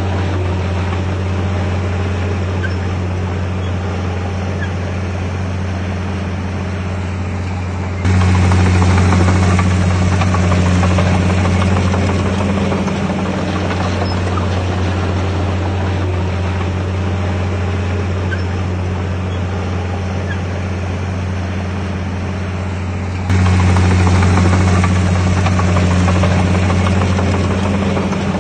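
Bulldozer's diesel engine running steadily with a deep drone. The sound steps abruptly louder about eight seconds in and again near the end, then eases back.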